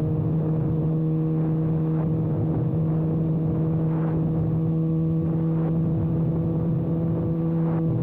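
Kawasaki ZX-6R inline-four engine running with its exhaust muffler can removed, holding a steady, even note at a constant engine speed while riding.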